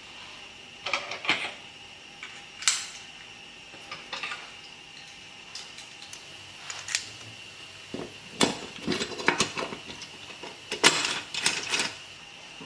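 Small metal engine parts and hand tools clinking and clanking irregularly while a 70cc motorcycle engine is assembled, with a busier run of knocks in the second half, over a faint steady high-pitched hum.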